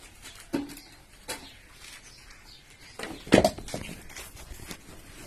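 Motorcycle fuel tank being lifted off the frame: a few light knocks, then a louder clatter about three and a half seconds in.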